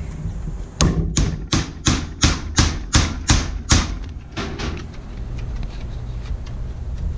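About ten sharp strikes in quick succession, roughly three a second, driving a homemade sharpened metal punch through a piece of stingray wing to cut out a round fake scallop. The strikes stop a little before halfway, leaving a steady low hum.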